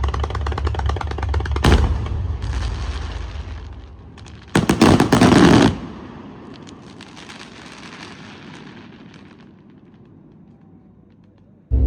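Aerial fireworks: a sharp bang a couple of seconds in and crackling that dies down, then a loud burst of bangs lasting about a second near the middle, followed by crackling that slowly fades. Music plays over the first couple of seconds and comes back in loudly right at the end.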